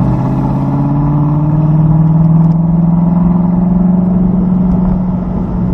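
Car engine heard from inside the cabin, accelerating along a straight, its note rising slowly and steadily.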